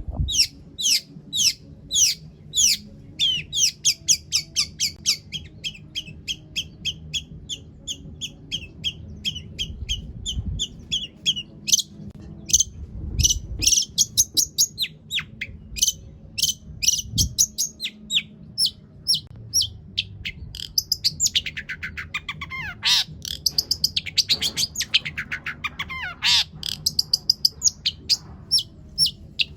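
Long-tailed shrike (cendet) singing a fast, varied song packed with mimicked phrases. For about twelve seconds it gives rapid runs of short, sharp, high notes, then spaced single notes. From about 21 to 27 seconds come harsh calls that sweep downward. A faint low hum runs underneath.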